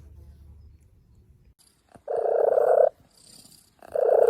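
A cat making two short cooing calls, each just under a second long and about a second apart. They sound like a baby dove rather than a meow.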